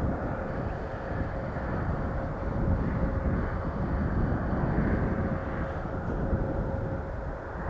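Jet airliner engines running at a distance, a steady rumble with a faint constant tone through it.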